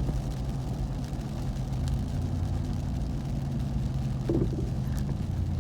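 Ram 1500 TRX pickup's supercharged 6.2-litre V8 running steadily while cruising, heard from inside the cab as a low, even drone.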